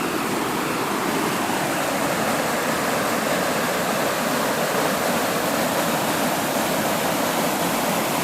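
Creek water running over a small waterfall: a steady rushing.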